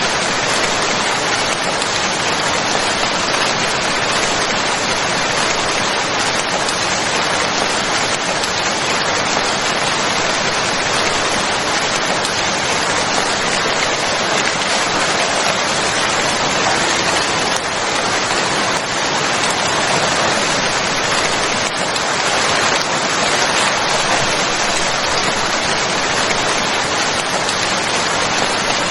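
Steady, heavy rain falling on a surface, a dense even hiss with no thunder or breaks.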